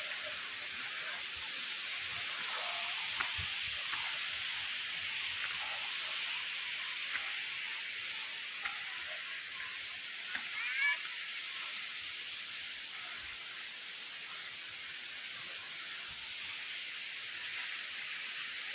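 Steady hiss of a waterfall's falling water, with a brief high chirp about ten seconds in.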